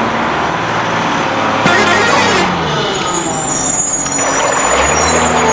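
A vehicle engine running steadily, with a short hiss about two seconds in and a shift in the engine note near the end.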